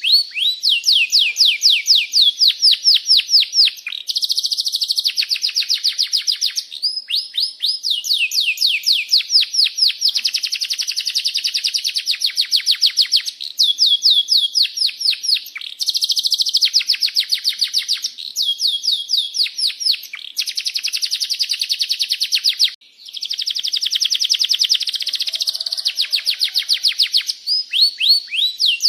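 Domestic canary singing a long rolling song: fast trills of rapid repeated downward-sweeping chirps, changing every couple of seconds from one trill to the next with brief breaks.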